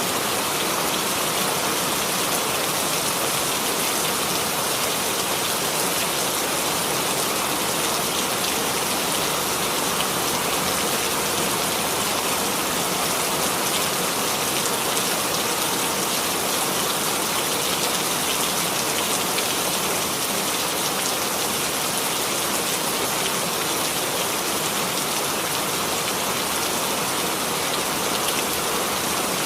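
Steady rainfall, an even hiss of many drops falling on a surface, with no thunder or other events standing out.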